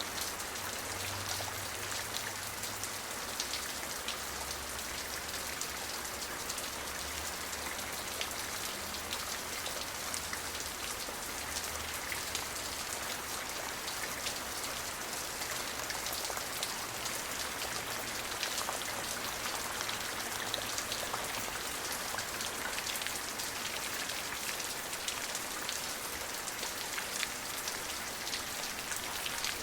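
Steady rain falling, with many individual drops ticking through an even hiss. A faint low hum comes and goes beneath it.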